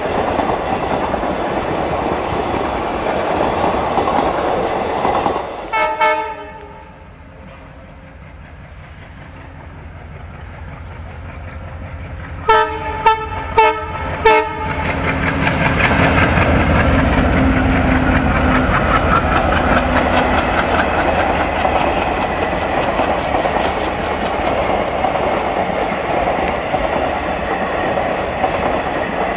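Passenger train coaches running past with wheels clattering over the rail joints, dying away about six seconds in just after a short horn blast. An approaching locomotive then sounds its horn in four short blasts, and a second passenger train's coaches rumble and clatter past loudly for the rest.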